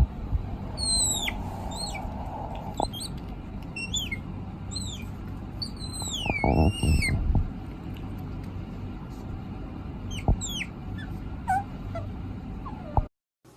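A small animal making a series of short, high-pitched squeaky calls that slide down in pitch, with a longer wavering call about six seconds in. There are a few soft knocks among them over a low background hum.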